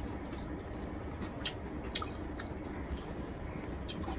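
A person chewing a mouthful of rice and fish curry close to the microphone: sparse wet mouth clicks and smacks, a few each second.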